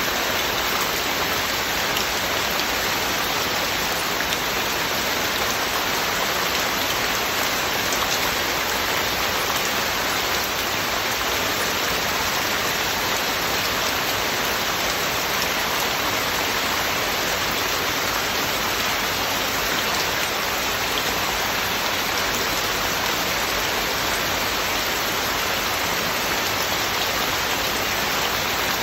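Heavy, steady rain falling and pattering on surfaces, a dense even hiss with faint scattered drop ticks.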